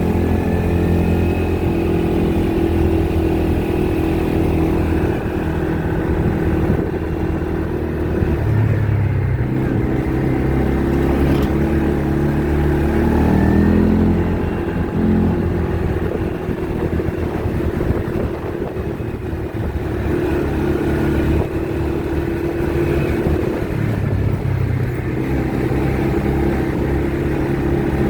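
ATV engine running under way, its pitch rising and falling every few seconds as the throttle changes.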